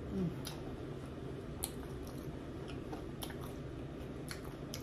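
Close-miked chewing of ketchup-dipped waffle fries, with wet mouth clicks and smacks every half second to a second. A short falling 'mm' hum comes right at the start.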